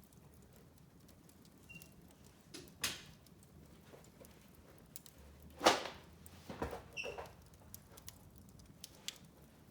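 Wood fire in a fireplace crackling, with scattered small ticks and two louder pops, the loudest about halfway through. A brief high whistle follows shortly after.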